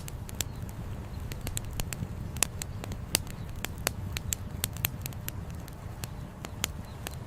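Wood fire crackling, with frequent irregular sharp pops and snaps, over a steady low rumble of flowing river water.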